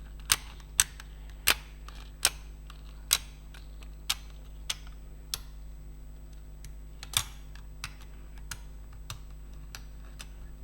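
Computer keyboard keys being pressed one at a time, sharp separate clicks, about one every half to one second at first and thinning out after about five seconds.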